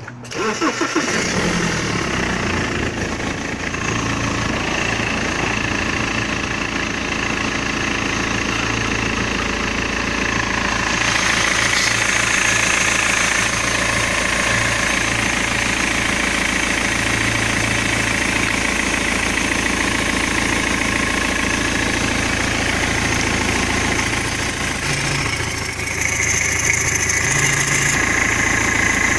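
BMW M47D20 2.0-litre four-cylinder turbodiesel starting about half a second in, then idling steadily.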